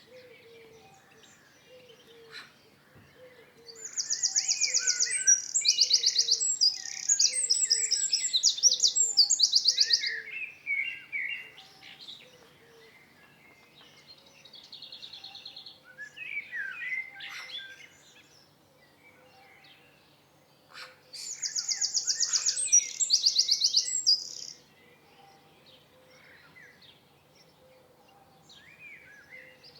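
Wild songbirds singing: two loud bouts of fast, high trilling song, one a few seconds in and another about two-thirds of the way through, with quieter chirps and warbled phrases between them.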